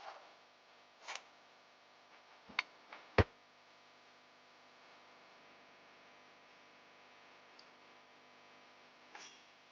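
A few short, sharp clicks and knocks, the loudest about three seconds in, over a faint steady hum.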